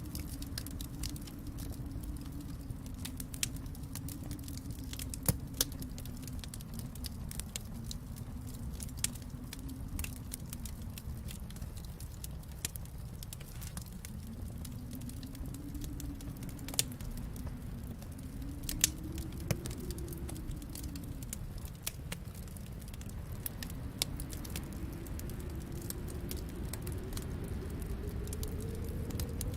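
Wood fire crackling in a fireplace, with irregular sharp pops and snaps over a steady low rumble that swells slightly near the end.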